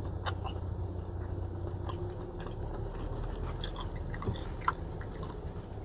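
Low steady hum of a taxi at idle heard inside the cabin, with scattered small clicks and crunches.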